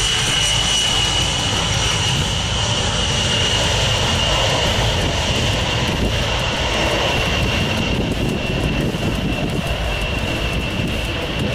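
Engines of a large jet aircraft running loud and steady, with a high whine that drifts slightly down in pitch.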